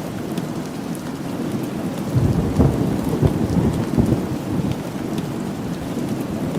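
Steady rain falling, with a roll of thunder rumbling in about two seconds in and fading out a few seconds later.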